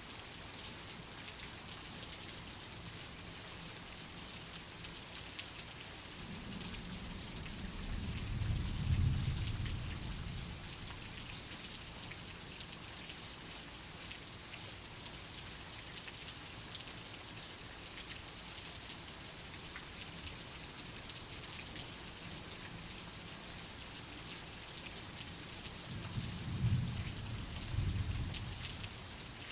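Steady rain patter with two low, rolling rumbles of thunder, the first swelling and fading about eight seconds in, the second near the end.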